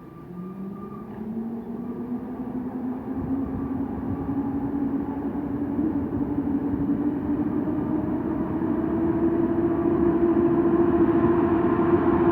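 Electric train accelerating, its traction motors giving a whine that rises steadily in pitch as it grows louder, over the rumble of the wheels on the rails.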